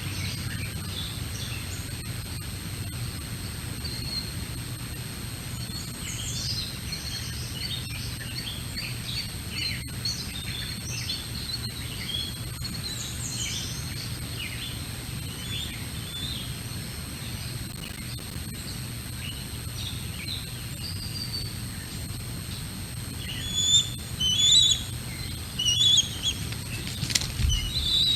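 Small birds chirping in many short, quick calls, with a louder flurry of chirps near the end, over a steady low hum.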